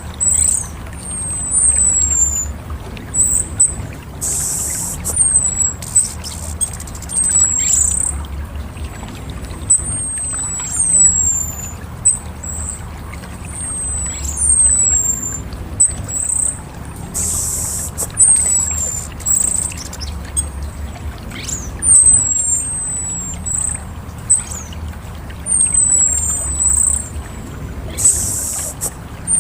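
Orange-headed thrush calling: a long series of short, very high, thin notes, each sliding downward, repeated every half-second or so. Three times a brief hiss cuts in. Under it all runs a steady low rumble like trickling water.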